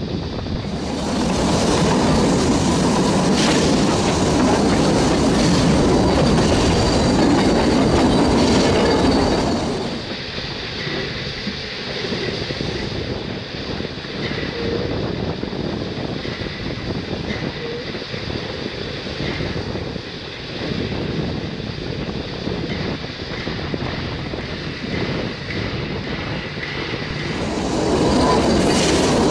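Narrow-gauge (2 ft 6 in) steam train running along the track, wheels clattering on the rails with some thin wheel squeal. The running noise drops about ten seconds in and rises again near the end.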